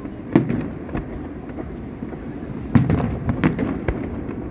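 Fireworks exploding in a display: a series of sharp bangs at uneven intervals over a continuous low rumble. The loudest bangs come about half a second in and just before three seconds, with lighter cracks in between.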